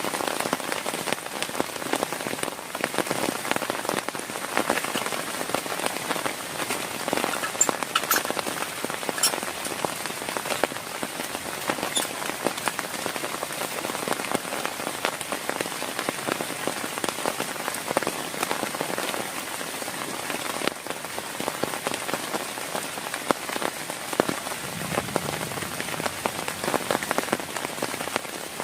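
Heavy rain falling steadily, dense drops pattering on a surface, with a few sharper, closer drop hits.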